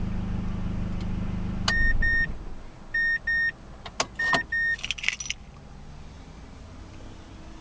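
A 2012 Mazdaspeed3 idling with a low steady hum that cuts off about two seconds in as it is switched off. Then the car's warning chime sounds three pairs of short beeps, with clicks and a brief jingle of keys in between.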